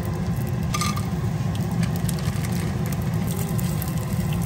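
Bacon and garlic frying in oil in a clay pot, with a light crackle of spitting oil over a steady low rumble, and a short brighter rustle about a second in.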